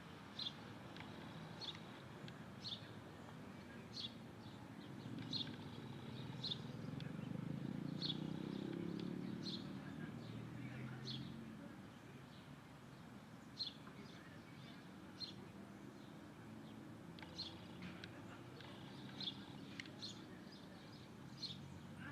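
A bird repeating short, high chirps, roughly one every second, over a low rumble that swells and fades in the middle.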